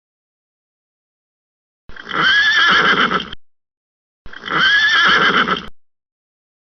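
A horse whinnying twice, two identical calls about a second and a half long each, with a pitch that rises and then falls; the first starts about two seconds in and both are cut off sharply, as though the same recording were played twice.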